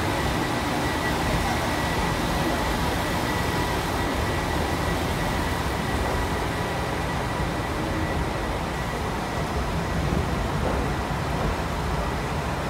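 Steady low rumble of the Kushiro Shitsugen Norokko sightseeing train rolling slowly, heard from inside an open-windowed car, with a thin steady high tone over it.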